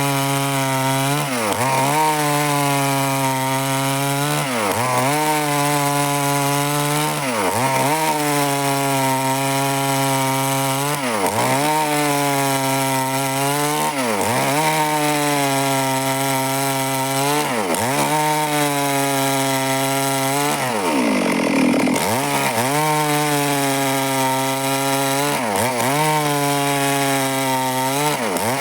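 Stihl chainsaw running at high speed and cutting wood. Its engine note dips sharply and recovers about every two seconds, with one longer, deeper dip a little past two-thirds through.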